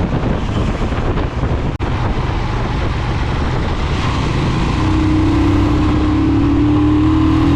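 Motorcycle engine running under way, with wind noise over the helmet-mounted microphone. About five seconds in, a steady engine hum rises above the rush.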